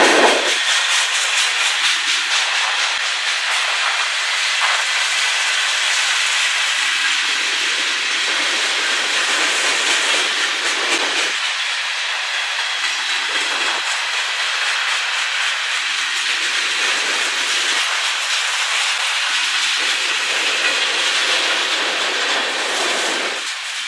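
Freight cars of a manifest train rolling past: a steady hiss and rolling noise of steel wheels on the rails, with faint clicking from the wheels.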